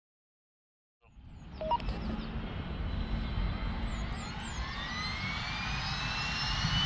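Silence for the first second, then the AW169 helicopter's twin turboshaft engines and rotor come in: a low steady rumble under a turbine whine that rises steadily in pitch. A short two-note beep sounds about two seconds in.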